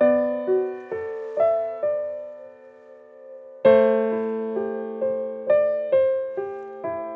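Slow, gentle solo piano music: single notes about two a second that each fade away, a lull of about a second partway through, then a fuller chord and the melody carrying on.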